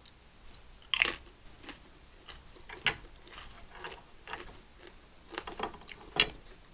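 Close-miked chewing of a lobster roll: wet mouth clicks and smacks at irregular moments, the sharpest about a second in and just before the three-second mark.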